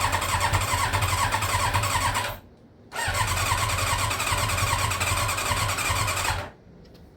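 Yamaha YZF1000R Thunderace's inline-four being cranked on the electric starter in two bursts of about three seconds each, with choke and a little throttle. Each burst stops abruptly and the engine does not settle into running.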